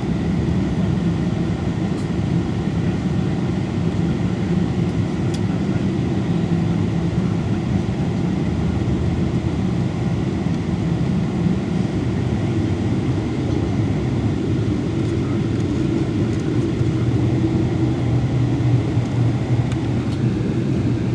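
Cabin noise inside a Boeing 777-224 airliner: a steady, low hum of engines and airflow with no change in pitch or level.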